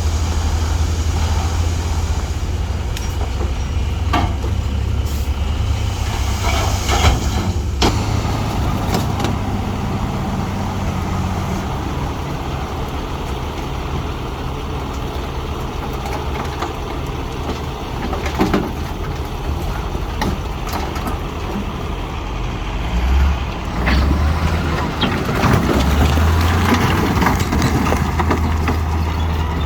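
Diesel engine of heavy earthmoving machinery running steadily under load, with scattered clanks and knocks of metal and rock.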